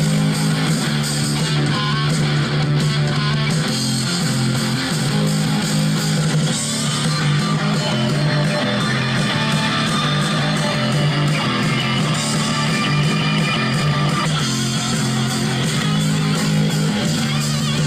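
Guitar-led music track played fairly loud through Logitech Z150 compact desktop stereo speakers set to maximum volume, fed from a phone over a 3.5mm cable.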